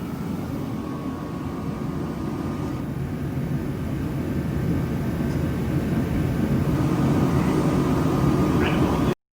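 A vehicle engine running steadily with a low rumble, growing gradually louder, then stopping suddenly near the end.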